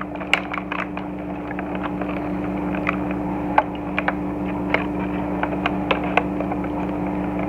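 A steady background hum runs throughout. Over it come scattered sharp clicks and rustles of plastic toy parts and cardboard packaging being handled and pried apart.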